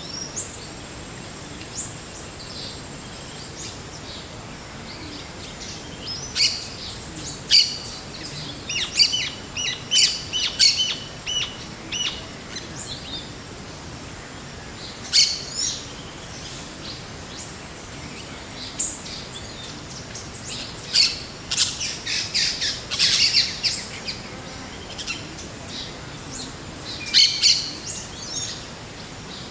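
Forest birds chirping and calling in bursts of short, high notes, with several birds overlapping at the busiest moments, over a steady background hiss.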